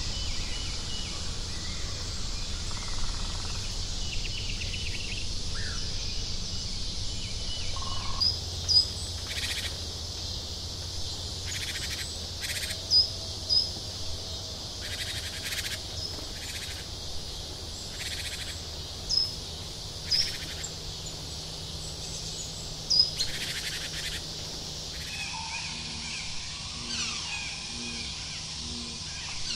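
Outdoor nature ambience: a steady high insect-like hiss with short bird chirps and calls every few seconds, the loudest of them between about 8 and 23 seconds in.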